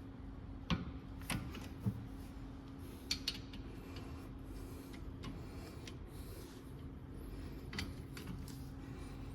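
Scattered sharp metallic clicks and knocks from hand tools and parts being handled during car brake work, over a steady low hum.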